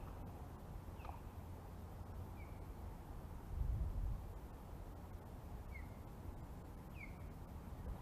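A bird giving short, falling chirps every second or two, over a steady low wind rumble on the microphone that swells briefly about halfway.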